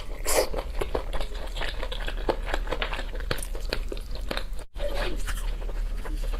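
Close-miked eating: rapid, irregular crunching and chewing clicks from biting and chewing food, with a steady low hum underneath. The sound cuts out completely for a moment a little past the middle.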